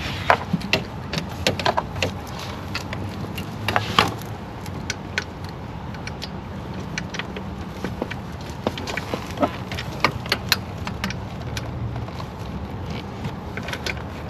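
Irregular metallic clicks and clinks of hand tools and fingers working a small nut loose on a bracket by the intake plenum, over a steady low hum.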